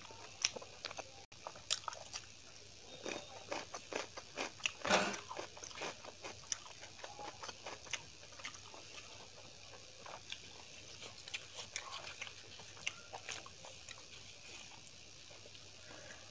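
Close-miked chewing of a mouthful of rice and dal: wet mouth clicks and smacks, dense for the first six seconds or so, then sparser.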